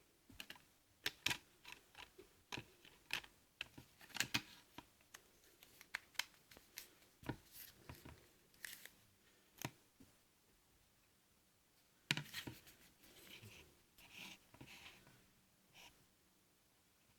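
Sharp, irregular clicks and taps of a Sony Xperia S smartphone being handled. They come thick for a while, stop for about two seconds past the middle, then resume.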